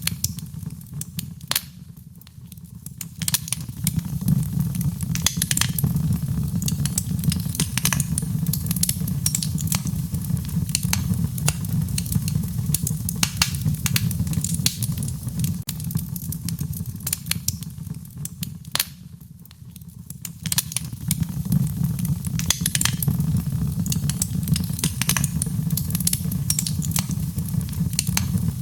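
Wood fire burning: a steady low rumble of flames with frequent sharp crackles and pops. The sound briefly drops away and swells back twice, about two seconds in and again a little past the middle.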